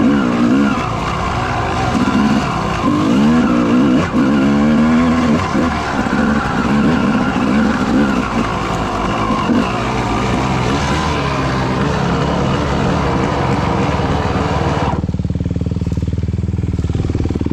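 Dirt bike engine revving up and down as it is ridden, its pitch rising and falling again and again; about fifteen seconds in it drops to a steady idle.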